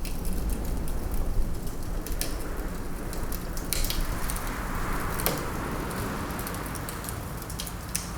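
Wood fire crackling, with a few sharp pops, over a steady low rumble of wind that swells about halfway through.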